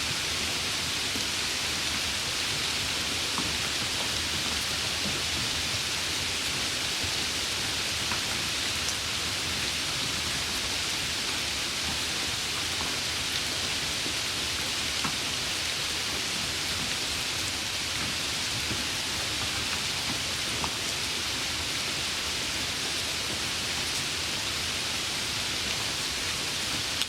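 Steady rain: an even hiss of falling rain with a few faint single drop ticks, unchanging throughout.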